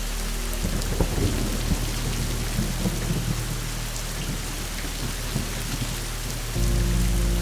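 Steady rain with a long, rolling rumble of thunder that crackles in from about half a second in and fades after several seconds. A low, sustained music drone comes back in near the end.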